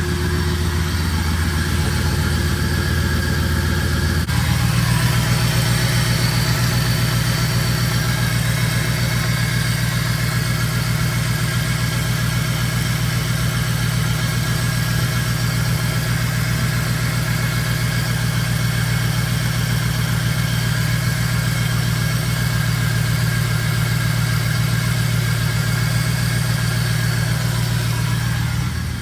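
Rebuilt car engine idling. About four seconds in, the idle steps up to a faster, steady speed. The owner says the engine still has a misfire on one side.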